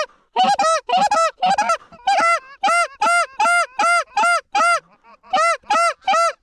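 Goose honking: a run of near-identical rising-then-falling honks, about three a second, with a short break about five seconds in.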